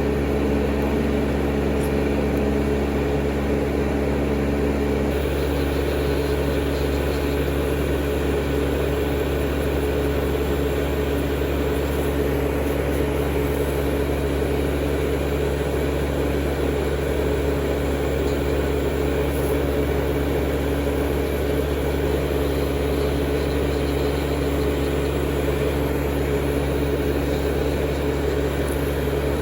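Steady motor hum of electric manicure equipment, an e-file nail drill with a table dust collector running, with one tone of the hum dropping out about five seconds in.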